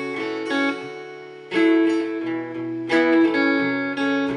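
Acoustic guitar strumming chords, one strum about every second and a half, each chord left to ring out between strums.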